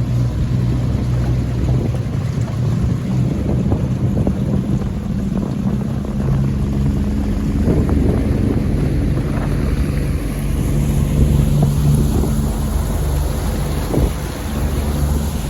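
Small outboard boat motor running steadily, its note shifting a little about ten seconds in, with wind noise on the microphone.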